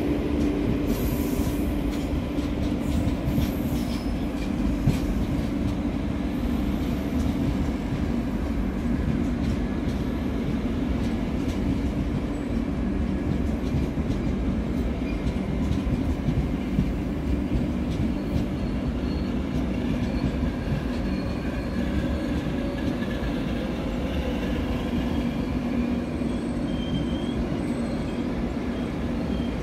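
A passenger train's coaches rolling steadily past: a continuous low rumble of wheels on rail, with faint clicks as the wheels pass over the rail joints.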